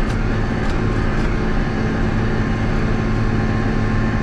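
John Deere 7200 tractor's six-cylinder diesel running steadily under load, heard from inside the cab, while pulling a manure spreader across the field.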